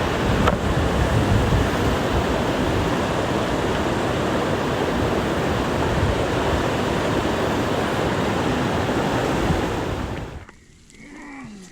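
A swollen stream in flood after heavy rain, its fast water rushing loudly and steadily. It cuts off suddenly near the end, leaving a much quieter background.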